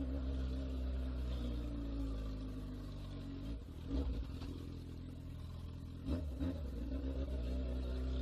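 Honda Hornet motorcycle's inline-four engine running steadily while riding, with two brief changes in engine note, about halfway through and again near two-thirds in.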